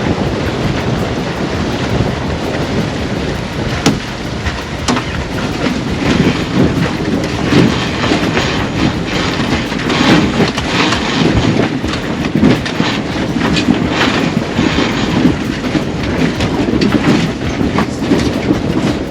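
Wind buffeting the microphone and water rushing past the hull of a sailboat under sail in brisk wind. A steady rush runs throughout, broken by irregular clattering knocks.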